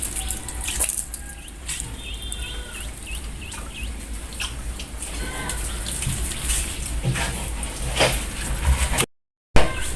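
Small birds chirping repeatedly in short hooked calls over a low steady rumble; the sound cuts out for a moment near the end.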